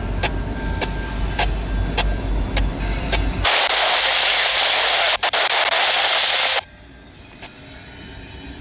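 Freight train rolling past, a steady low rumble with wheels clicking over rail joints a little over twice a second. About three and a half seconds in, a loud hiss takes over for some three seconds and cuts off suddenly. After that a much quieter rumble slowly builds again.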